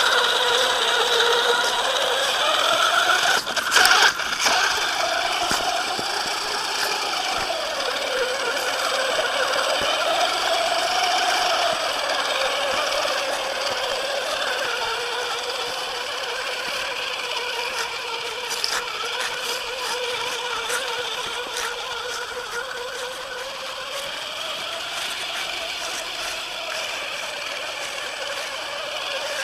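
1/8 scale 4WD RC monster truck driving over rough ground, its motor whine rising and falling with the throttle over a steady drivetrain rattle. A quick run of knocks about four seconds in is the loudest moment.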